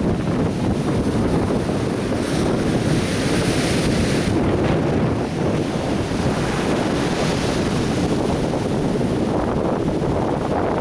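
Atlantic surf breaking on a beach, with wind buffeting the microphone. A wave breaks about two seconds in and its wash stays brighter for about two seconds before settling back into the steady roar of the surf.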